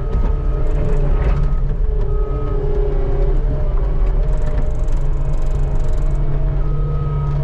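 Skid steer engine running steadily at working speed, with a higher whine that comes and goes over it.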